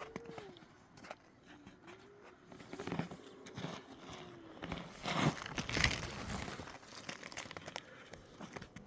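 Crinkling and rustling of something being handled, loudest about five to six seconds in, with a few soft rising-and-falling low calls.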